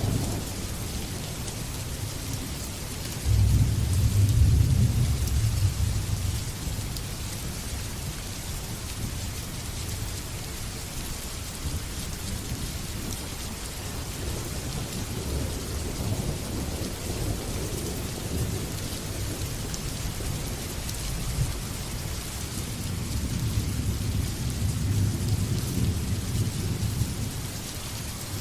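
Steady heavy rain with rolling thunder. A loud rumble breaks in suddenly about three seconds in and dies away over a few seconds, and another rumble builds near the end.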